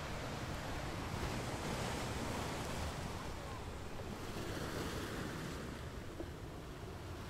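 Steady road noise from a car driving at about 30 mph, heard from inside the cabin: tyres on asphalt and wind, with no distinct events.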